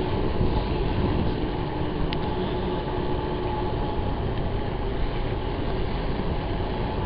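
Steady rushing noise of a bicycle being ridden along, mostly wind on the microphone with some rolling rumble.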